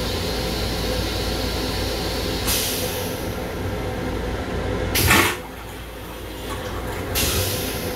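Steady running rumble and hiss of a Long Island Rail Road M7 electric railcar, heard inside its small restroom. A short hiss comes about two and a half seconds in and another near the end, and a louder, sharper rush just after five seconds is followed by a brief drop in the background noise.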